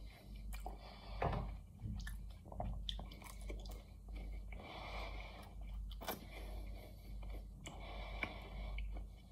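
Close-up chewing of a mouthful of roast chicken pie with pastry, with many small mouth clicks throughout.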